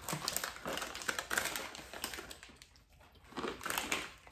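Crunchy snacks being chewed up close: quick, irregular crackling crunches that stop briefly past the middle and then start again.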